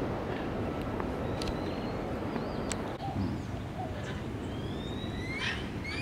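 Birds calling over a steady rushing background: several short rising whistles from about four seconds in.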